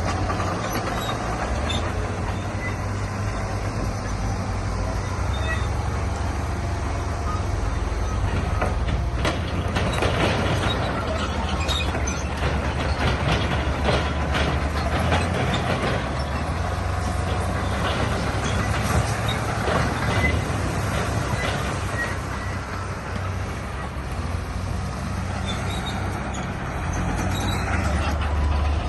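Heavy diesel earthmoving machine, a crawler bulldozer, running steadily, with a long stretch of clattering and grinding in the middle.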